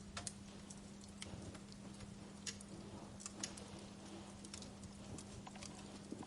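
Wood fire in a fireplace crackling, with irregular sharp pops and snaps a few times a second over a faint hiss. A steady low hum runs underneath.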